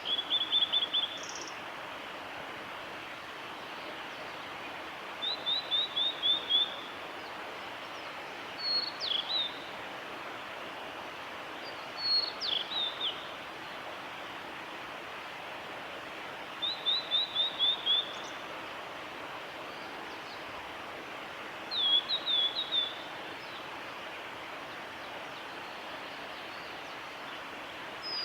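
Male blue-and-white flycatcher singing: about six short, high song phrases a few seconds apart, each a second or two long, several ending in a quick run of repeated falling notes, over a steady background hiss.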